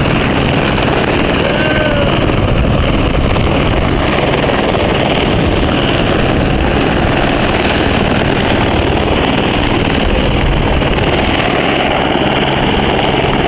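Helicopter running loud and steady, its engine and rotor noise continuous throughout.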